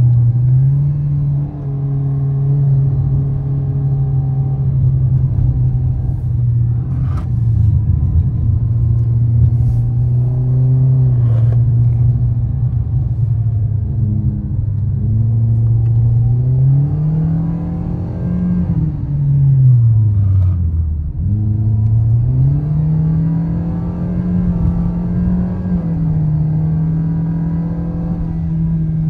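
2023 Toyota Vios's 1.5-litre four-cylinder engine running under way, a steady drone that rises and falls in pitch with the throttle. About twenty seconds in it drops low, then climbs back up.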